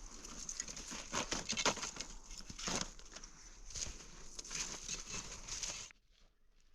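Footsteps crunching through snow, an uneven run of scrunching steps that stops abruptly near the end.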